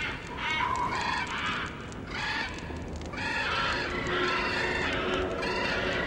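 Harsh bird calls, like honking or cawing, repeating in quick succession. A faint steady low tone joins partway through.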